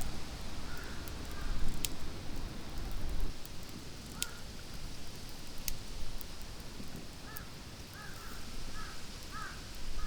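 A bird calling in short, repeated calls: one about a second in, another at about four seconds, then a run of about five in quick succession near the end. Steady outdoor forest ambience runs underneath, with a few sharp clicks.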